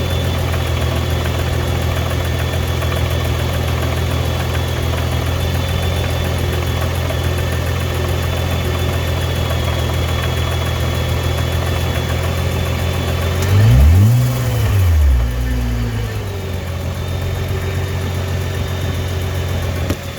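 2015 Nissan GT-R R35's twin-turbo V6 idling steadily, blipped about two-thirds of the way through: a quick rev that rises and falls, a smaller second blip, then back to idle. This is the idle in which the car is said to clunk and rattle at times, from a cause not yet known (gearbox, clutch or exhaust).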